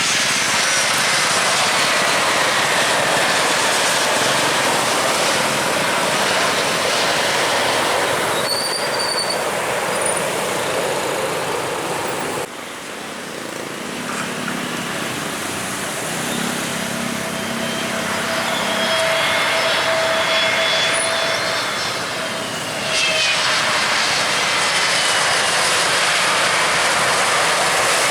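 Jet airliner engines running loud as aircraft pass, a steady rushing roar with high whines that slide down in pitch. The sound drops and changes abruptly about twelve seconds in and again about ten seconds later.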